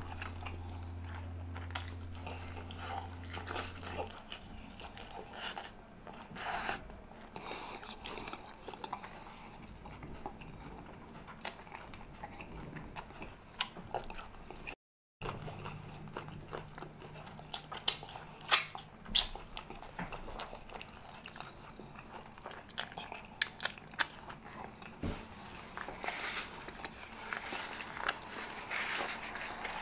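Close-miked chewing and biting of buttery garlic rotisserie chicken, with many sharp wet mouth clicks and smacks. A low hum sits under the first few seconds, and the sound cuts out completely for a moment about halfway through.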